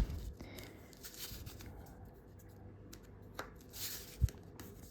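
Faint rustling and creasing of a sheet of A4 paper being folded and pressed by hand, with a soft thump about four seconds in.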